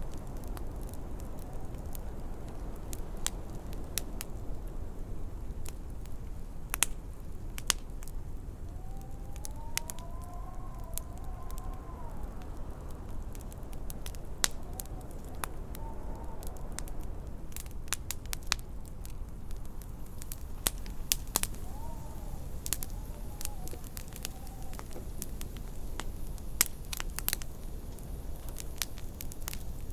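Wood fire crackling with frequent sharp pops over a steady low rumble of wind. A few times the wind howls in faint tones that rise and fall.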